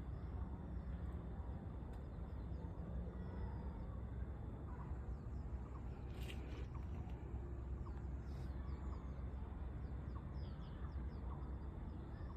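Many small birds chirping with short, quick notes over a steady low rumble, with two brief harsh calls or rasps about six and eight and a half seconds in.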